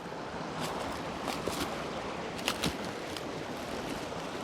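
Shallow creek water running steadily over rocks, with a few short sharp clicks scattered through it.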